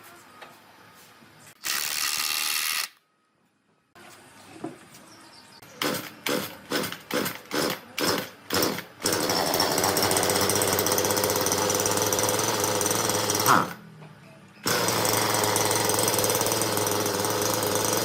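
A woodworking power tool cutting or working wood in several separate stretches. It starts with a short loud run and gives a string of short bursts, about two a second, between about six and nine seconds in. After that it runs steadily, with a brief break just before the end.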